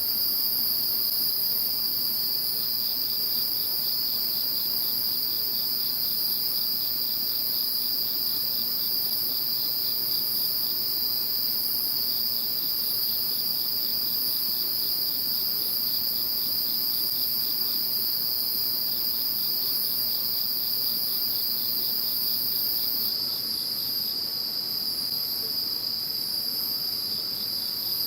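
A chorus of insects calling: a steady high-pitched trill runs throughout, joined by a rapid pulsed chirping that sounds for stretches of several seconds and then pauses.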